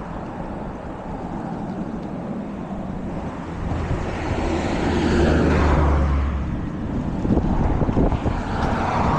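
Steady rush of wind and road noise while riding a bicycle. A louder low rumble swells up about four seconds in and fades about two seconds later.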